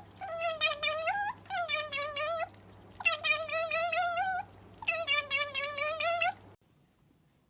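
A cat meowing four times in long, drawn-out calls whose pitch wavers up and down, each about a second or more, over a low steady hum. The calls stop abruptly about six and a half seconds in.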